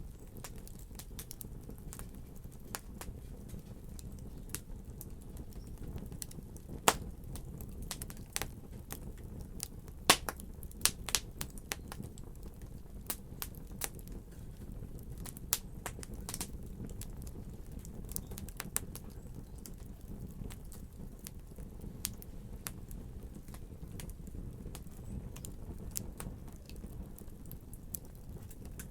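Wood fire burning in a fireplace: a steady low rumble of flames with irregular sharp pops and crackles, the loudest pops coming about 7 and 10 seconds in.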